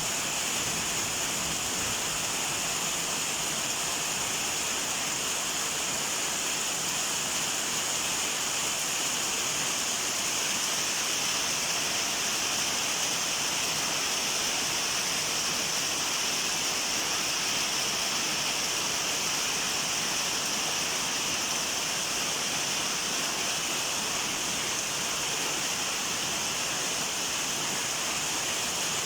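Steady rainfall: an even, unbroken hiss with no pauses or single drops standing out.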